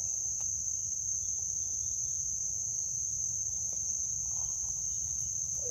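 Steady, high-pitched chorus of insects trilling without a break, with a couple of faint ticks over it.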